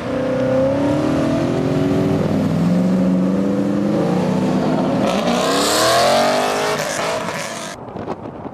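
A performance car's engine accelerating hard, its pitch climbing, levelling off, then climbing again about five seconds in. The sound falls away sharply near the end.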